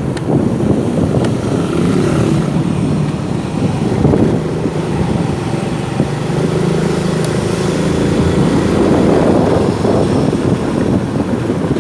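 Motorcycle engine running steadily while riding, its note shifting up and down with the throttle.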